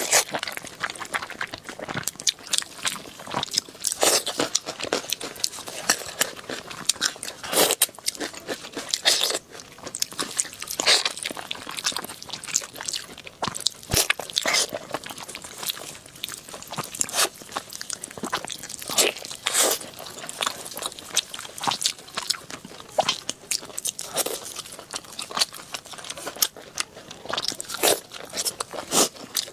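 A person chewing and biting pieces of pork knuckle meat close to the microphone: a continuous run of irregular, quick mouth clicks and chomps.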